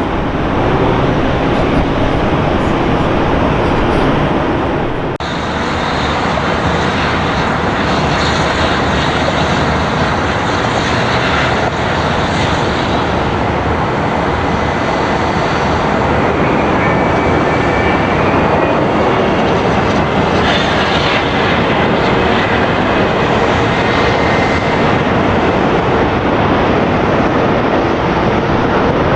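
Jet airliner engines running loud and steady, a dense rumble with no let-up, changing abruptly about five seconds in.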